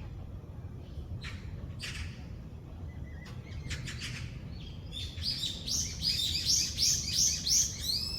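Wild songbird singing: a few scattered chirps, then about five seconds in a fast run of repeated high notes, roughly three or four a second, which is the loudest part. A steady low outdoor rumble lies underneath.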